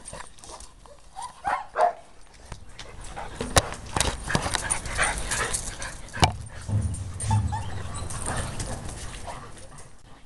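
A dog yipping and whining briefly, then a long stretch of scuffling, rustling and a couple of sharp knocks as the excited dog moves about close to the microphone.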